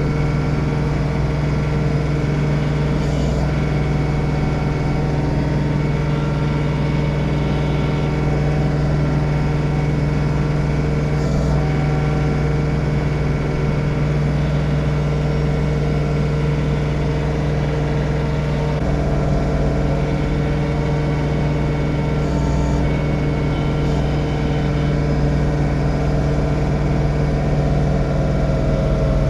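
John Deere 3046R tractor's diesel engine running steadily under snowblower load, a constant low hum with no change in speed.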